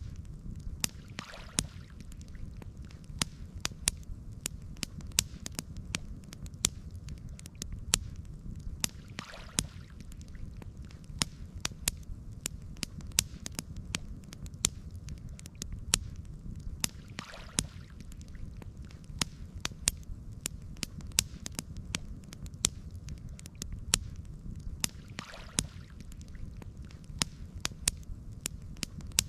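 Campfire crackling, with frequent sharp pops and snaps over a steady low rumble. A faint soft whoosh comes back about every eight seconds.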